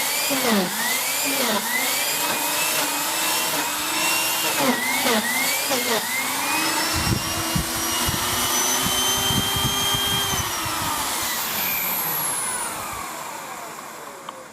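Miele S8730 (C3 Complete) cylinder vacuum cleaner running with its turbo brush, the motor's whine dipping in pitch and recovering about once a second as the head is worked back and forth. It then holds steady, and after about ten seconds the motor winds down, its pitch falling away as it is switched off.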